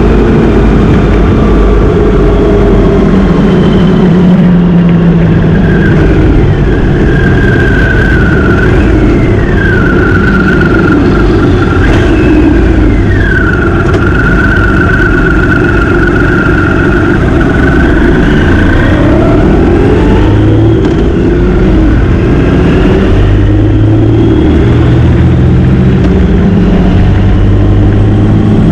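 Motorcycle engine running at road speed under loud wind rush. The revs rise and fall a few times as the rider changes speed.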